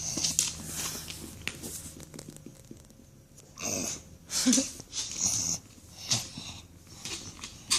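English bulldog snoring and wheezing as it falls asleep: rasping, noisy breaths at uneven intervals, with a quieter lull partway through.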